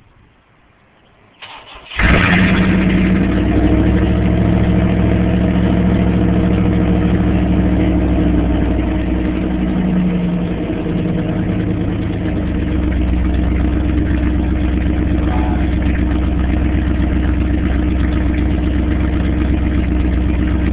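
1984 Pontiac Trans Am's 305 small-block V8 with tuned-port injection cranks briefly and fires about two seconds in, then idles steadily. The idle dips slightly around ten seconds in.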